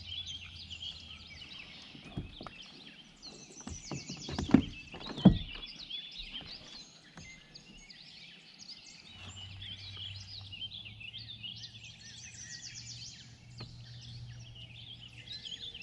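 Songbirds chirping and trilling along the creek, with a few sharp knocks about two to five seconds in, the loudest two close together near the middle.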